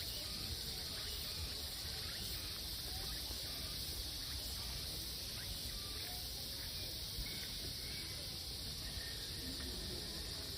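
A steady, high-pitched chorus of insects in a late-summer forest, droning without a break, over a low rumble.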